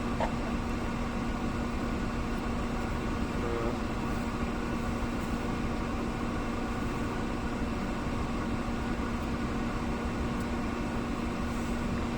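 Idling vehicle engine: a steady hum with a constant low drone.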